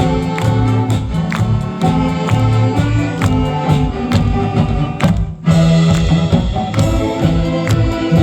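Saxophone big band playing a trot and popular-song medley live, with a steady drum beat under bass and sustained horn chords; the music breaks off for a split second about five seconds in, then comes straight back in.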